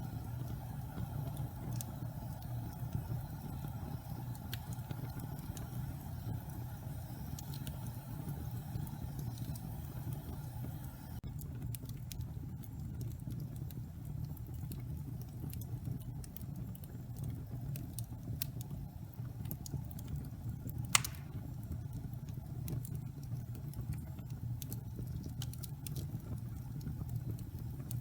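Wood fire burning in a fireplace: a steady low rumble with scattered small crackles and one sharper, louder pop about three-quarters of the way through.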